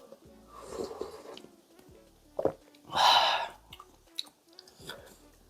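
Eating sounds from a bowl of ramyun: a few noisy slurps and chewing, the loudest slurp about three seconds in, with small clicks. Background music plays underneath.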